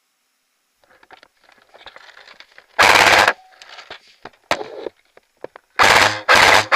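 Airsoft rifle firing bursts of full-auto fire close by: a half-second burst about three seconds in, a shorter one about a second later, then two more near the end, the last still going. Faint rustling and scuffing before the first burst.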